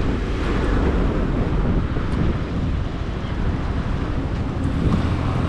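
Wind buffeting the microphone over the steady engine and road noise of a motorcycle being ridden.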